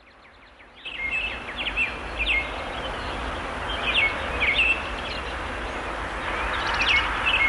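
Small birds chirping in short, repeated down-sweeping calls over a steady outdoor background hiss, which fades in over the first second.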